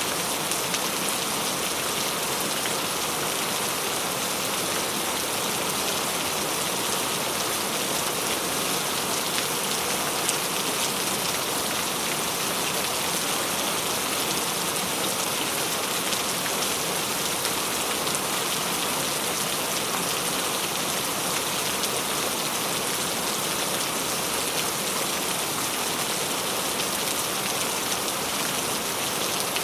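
Steady rain falling, an even hiss of many drops with faint pattering ticks.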